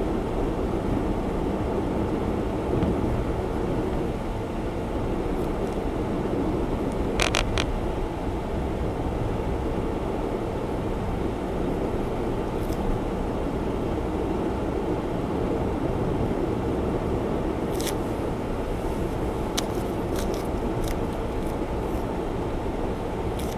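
Honda Zest Spark kei car driving, heard from inside the cabin: a steady mix of engine and road noise, with a few brief clicks or rattles, one about seven seconds in and a couple more near the end.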